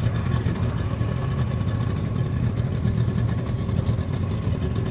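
Motorboat engine running steadily, a low continuous hum with a rush of wind and water noise over it.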